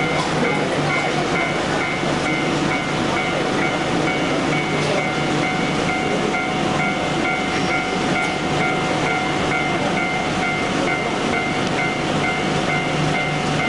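A train running by on the rails: a steady rumble of wheels on track with a few thin, steady tones above it.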